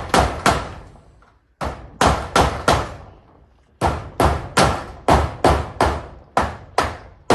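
Hammer driving nails: sharp, ringing blows about two to three a second, in runs of several strikes with short pauses between runs.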